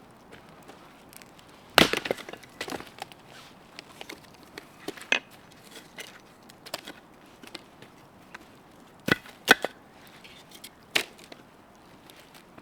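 Firewood being split: about half a dozen sharp wooden chops and cracks at uneven intervals, the loudest about two seconds in.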